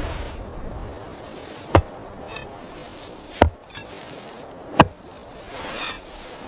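Three sharp knocks, about a second and a half apart, over a soft rushing noise that swells and fades.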